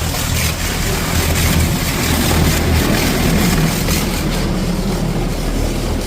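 Spinning high-pressure rinse wands of a Nu-Star Super Comet touchless car wash blasting water against the car, heard from inside the cabin as a loud, steady rushing hiss over a steady low hum.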